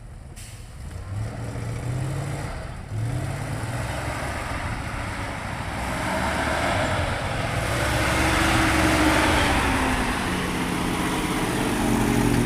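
ZIL-131 army truck's petrol V8 engine revving up several times, then working hard under load and growing louder, as if drawing nearer.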